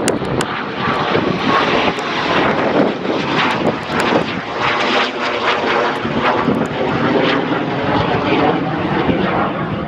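Loud jet noise from an RAF Eurofighter Typhoon's twin turbofan engines as the fighter flies past, its pitch slowly sweeping as it goes by.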